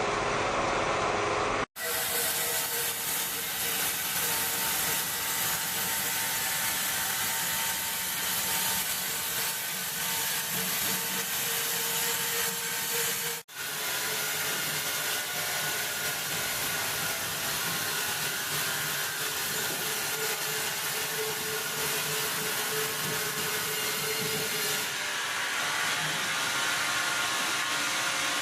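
Large sawmill saw running through a log, a steady noisy cutting sound with a faint steady hum, breaking off for an instant twice.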